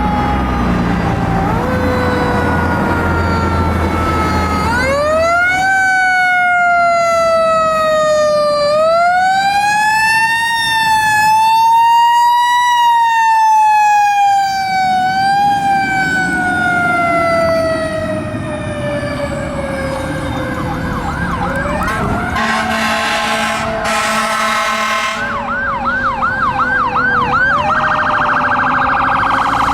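Fire apparatus sirens on an emergency response. A wailing siren winds up and down slowly for about twenty seconds, then gives way to a rapid yelp that keeps sweeping up and down. Two short, loud horn blasts come about two-thirds of the way in, and a fast high tone closes it out.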